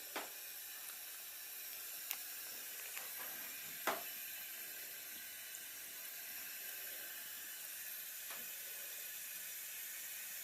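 Tap water running steadily into a sink, a soft even hiss, with a few brief taps or splashes, the sharpest about four seconds in.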